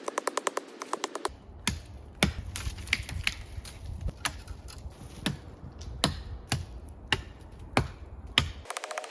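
Sharp wooden cracks and snaps of dead sticks and branches being broken while gathering wood, over a low wind rumble. A rapid, even run of clicks at the start gives way to separate cracks about every half second, and another rapid run of clicks starts near the end.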